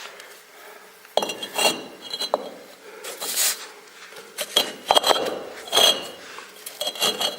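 Refractory bricks being fitted by hand: a string of hard clinks and knocks of brick against brick and stone, with scraping between them.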